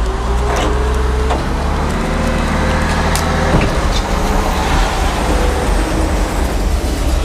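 Heavy scrapyard machinery working a pile of scrap metal: a diesel engine running steadily, with gliding whine-like tones and several sharp metal clanks.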